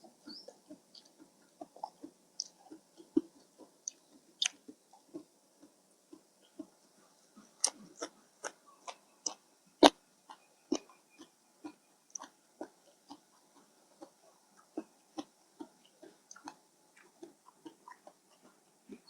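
Close-up chewing sounds of someone eating rice noodles in fish curry: a run of irregular short clicks and smacks, the sharpest one about ten seconds in.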